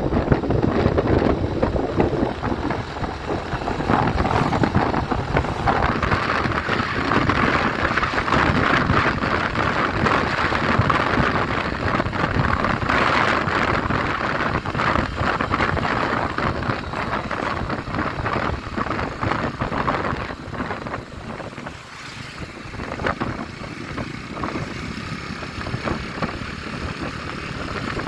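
Strong wind rushing and buffeting the microphone over the steady noise of a car being driven. The rushing is loudest in the first half and eases somewhat near the end.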